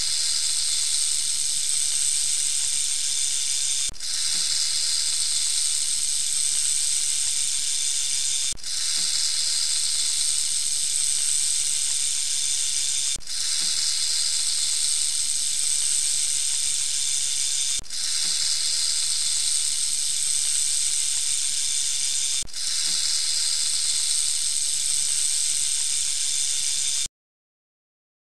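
Rattlesnake shaking its tail rattle: a steady, dry, high buzzing hiss with a brief break about every four and a half seconds, stopping shortly before the end.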